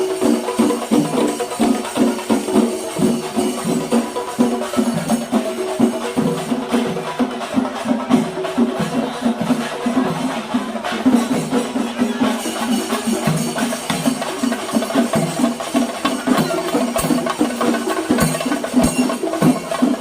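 Kerala temple percussion ensemble drumming fast, dense strokes in a steady, driving rhythm.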